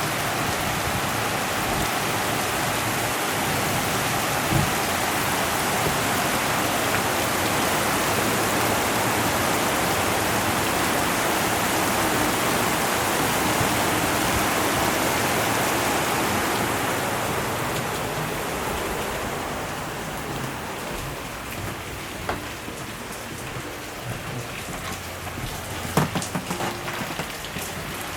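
Heavy rain pouring down in a steady, dense hiss. About two-thirds of the way through it becomes somewhat quieter, and separate drips and splashes stand out more clearly.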